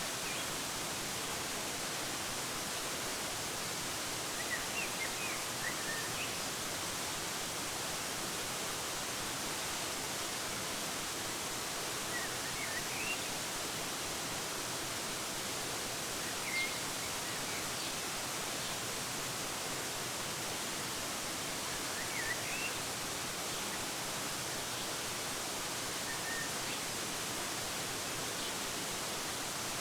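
Waterfall rushing steadily, with short bird chirps now and then over it.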